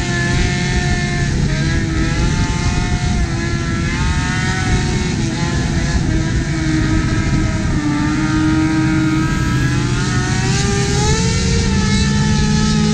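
Motorcycle engines running at highway speed over steady road and wind noise, their pitch rising and falling as the throttle changes, with a climb in revs about ten seconds in.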